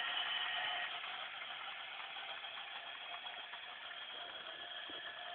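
Battery-powered toy train running on its track, a steady whir of its small electric motor and wheels that grows slightly fainter.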